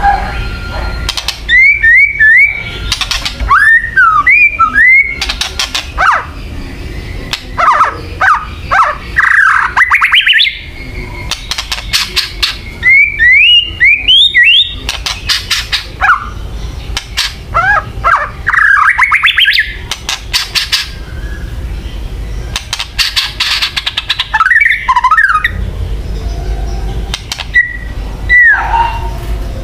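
White-rumped shama (murai batu) giving its agitated kretekan: phrases of sharp whistled notes sliding up and down, broken by rapid crackling rattles, repeated every few seconds. It is loud, with short pauses between phrases.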